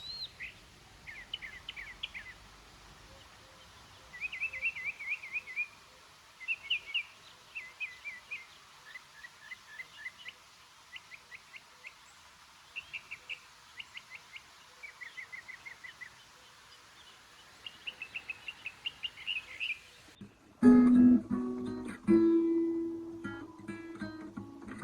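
Small birds singing, with short chirping phrases repeated over a faint steady hiss. About twenty seconds in it cuts suddenly to louder acoustic guitar music, plucked and strummed.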